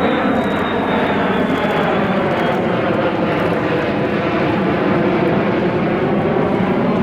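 Loud, steady aircraft engine noise from a military plane, with a high whine near the start that slowly drops in pitch.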